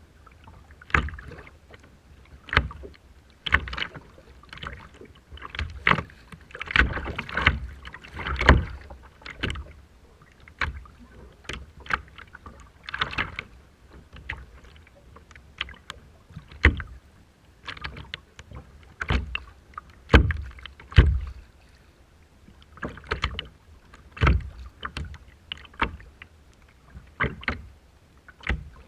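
Choppy sea water splashing and slapping in irregular bursts, one every second or two, with low thuds among them.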